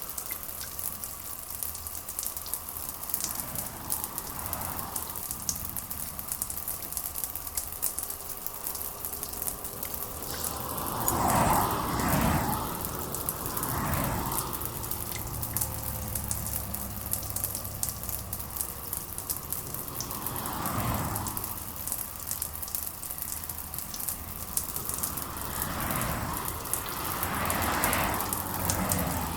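Steady rain with fine pattering drops. Several times it swells into a whoosh that rises and fades over a second or two, strongest about a third of the way in.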